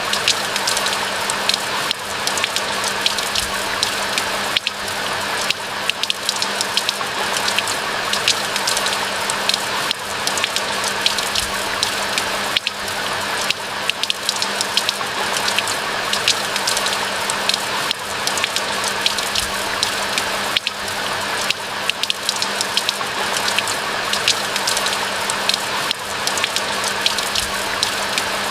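Steady rain falling, a dense wash of water noise with many separate drop hits, over a faint steady low hum.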